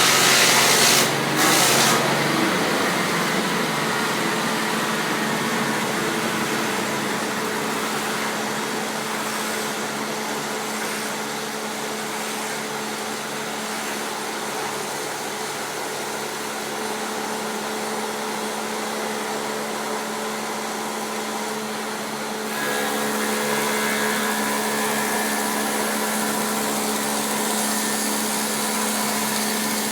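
Taiga OS-1 electric log-rounding machine running with a steady motor drone, louder for the first two seconds and again from about three quarters of the way through.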